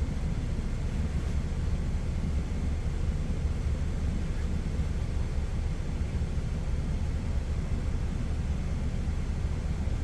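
Steady low rumble of an idling truck engine, even and unchanging throughout.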